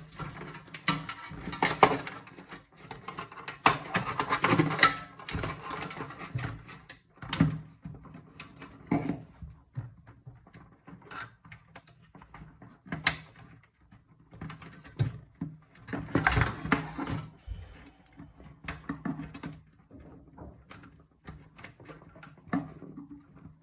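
Irregular clicks, knocks and scrapes of computer parts being handled and pulled out while a desktop PC is taken apart.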